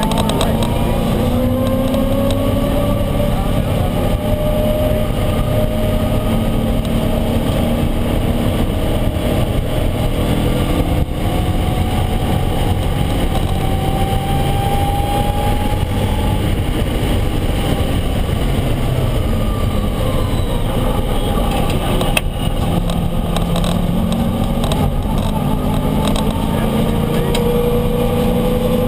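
Road-race Mustang's V8 running hard under load on track. Its pitch climbs steadily through a gear, drops back and climbs again several times, over heavy road and wind noise.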